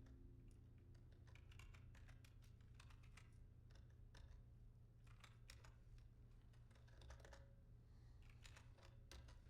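Faint typing on a computer keyboard: irregular keystrokes in short runs, over a low steady hum.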